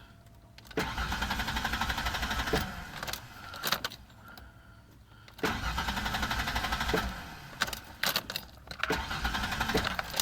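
The starter of a 1991 Ford Explorer's 4.0 L V6 cranks the engine in three bursts of a second or two each, and the engine never catches. This is a no-start condition that the owner suspects lies in a broken PCM ground or the relay wiring.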